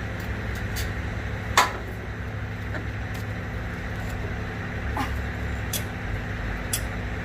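Semi truck's diesel engine idling steadily, with a handful of sharp metallic clicks at irregular intervals, the loudest about one and a half seconds in.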